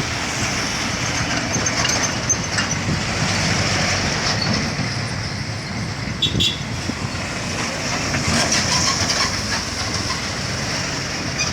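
Heavy trucks passing close by under load: diesel engines labouring with the clatter of the truck bodies, and a brief high squeal about six seconds in.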